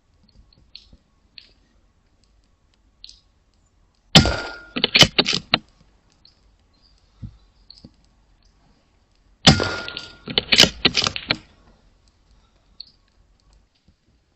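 Two shots from an Airmaks Krait L .22 air rifle about five seconds apart, each a sharp crack followed by a quick run of clicks.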